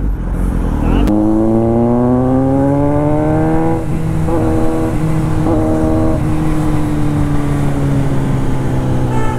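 Motorcycle engine accelerating hard: its pitch climbs for about three seconds, drops at an upshift, and after a couple of brief breaks for quick shifts it holds a steady cruising note.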